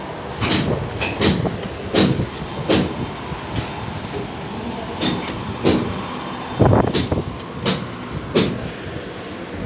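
A series of sharp knocks, about one every half second to a second, some louder than others, over a steady background noise.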